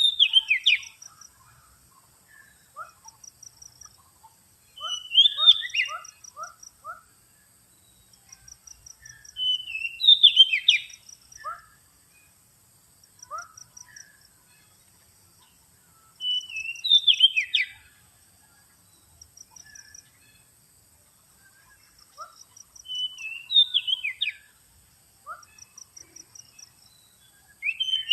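Oriental magpie-robin (kacer) singing short phrases of quick falling whistled notes, repeated about every six seconds, with softer notes between them.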